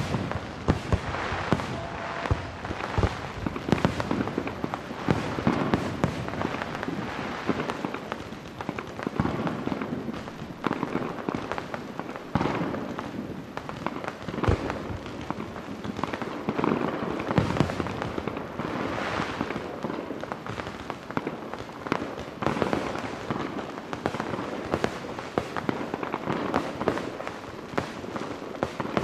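Fireworks finale: a dense, unbroken barrage of shell bursts, with sharp bangs and crackling overlapping throughout.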